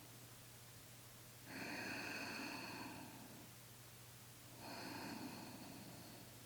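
A person breathing slowly and audibly: two long, faint breaths, each about a second and a half, over a low steady hum.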